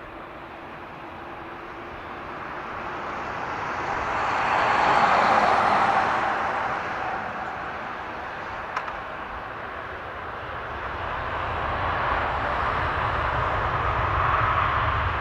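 Boeing 787-8 jet engines at takeoff power, a steady roar that swells about five seconds in, eases, then builds again with a deeper rumble toward the end. A single sharp click comes near the middle.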